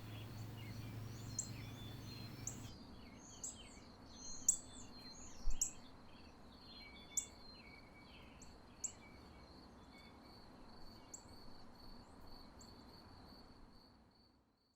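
Birds chirping in short, scattered calls over a faint, steady high-pitched tone, with a low hum that cuts off about three seconds in; all of it fades out near the end.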